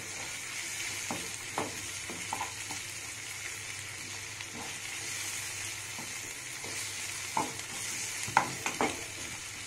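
Chopped onions, green chillies and ginger-garlic paste sizzling steadily in hot oil in a non-stick kadai, stirred with a wooden spatula that scrapes and knocks against the pan every second or so. They are being sautéed until the ginger-garlic paste loses its raw smell.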